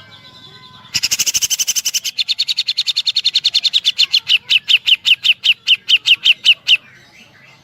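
Grey-cheeked bulbul (cucak jenggot) giving a long rapid-fire series of sharp chirps, the woodpecker-style 'tembakan' phrase. It starts about a second in very fast, then slows and grows louder before stopping abruptly.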